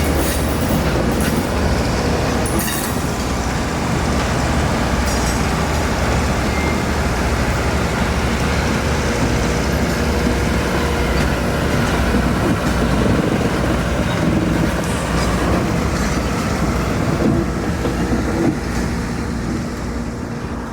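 Train moving on the rails: a steady heavy rumble with scattered clicks and clatter from the wheels, easing slightly near the end.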